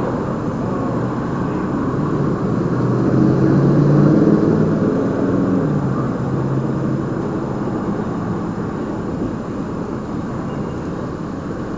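Motor vehicle engine and road noise, a steady hum that grows louder around four seconds in and then eases off.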